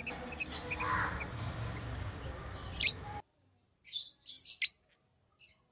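Lovebirds chirping in short, high calls over a low background noise. About three seconds in, the background noise cuts off suddenly, and a few separate chirps follow with quiet between them.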